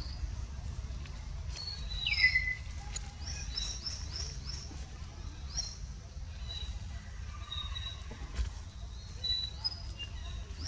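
Birds chirping: short high chirps that sweep downward, repeated in quick runs, with one longer falling call about two seconds in. A low steady rumble lies beneath.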